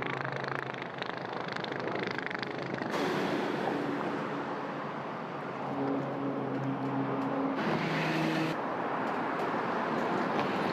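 An engine humming steadily under a loud rushing noise. The sound changes abruptly about three seconds in and again near the end.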